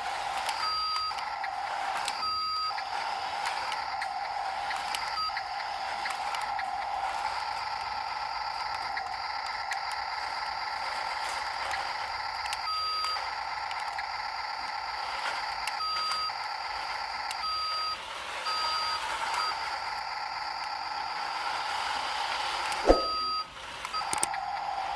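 Radio-controlled toy dump truck's small electric motor whining steadily, with short electronic reversing beeps sounding now and then and a sharp click near the end.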